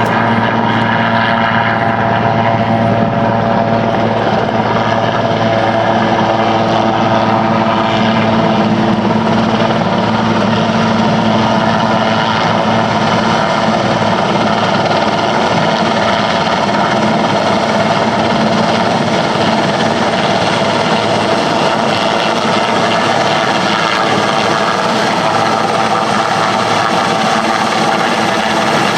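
Helicopter running close by: a loud, steady rotor and engine drone with constant pitched hum tones that holds without change.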